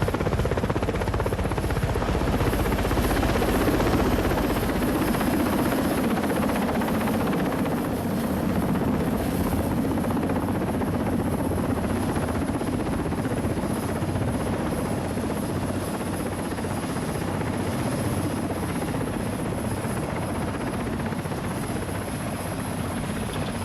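Helicopter in flight: a steady rush of rotor and engine noise with a fast, even rotor beat underneath, cutting off suddenly at the end.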